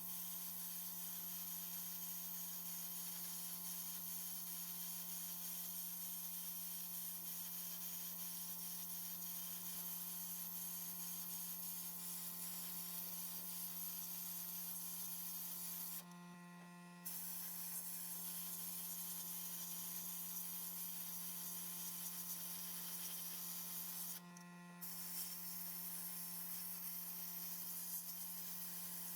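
A steady low electrical or motor hum with a hiss over it. The hiss drops out briefly twice.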